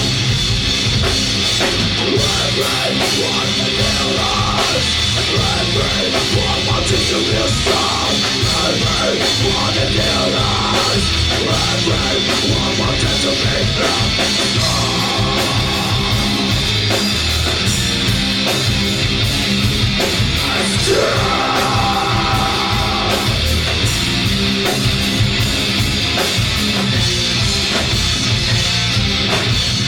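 Live rock band playing a loud, heavy song, the drum kit driving a steady beat under amplified guitars.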